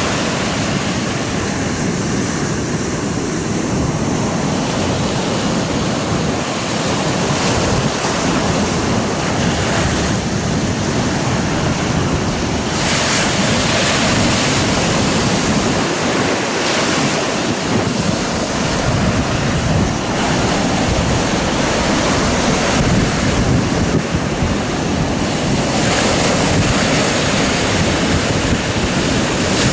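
Sea surf breaking on a beach, a steady wash with louder waves crashing a few times, and wind buffeting the microphone.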